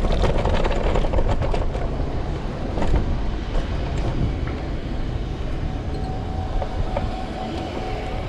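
Ride noise from a camera on a moving electric scooter's handlebars: steady wind rumble with street traffic, and a clatter of rattles in the first couple of seconds.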